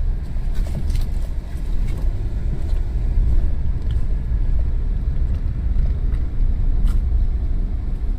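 Strong gusty wind buffeting the microphone: a loud, uneven low rumble that swells and dips, with a few faint clicks over it.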